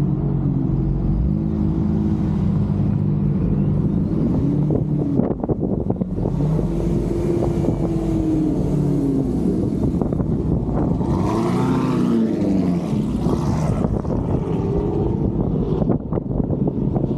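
Car engine running at low speed, its pitch rising and falling in slow swells as the car pulls away and eases off, over a low rumble. Wind hiss on the roof-mounted camera rises midway.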